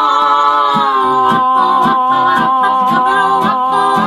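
A vocal harmony group holding a long sustained chord, wavering with vibrato at first and then held steady, while an acoustic guitar strums an even rhythm underneath from about a second in.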